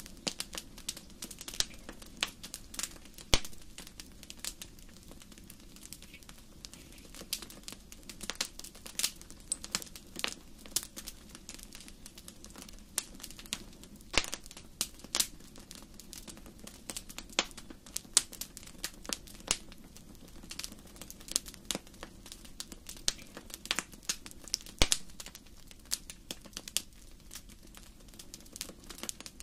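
Wood fire in a fireplace crackling: a steady stream of irregular sharp pops and snaps, a few much louder than the rest, over a low steady background of the burning fire.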